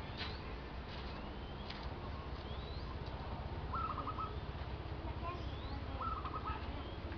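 Birds calling in the background: two quick runs of four or five short repeated notes, about four and six seconds in, with a few faint rising chirps, over a low steady background noise.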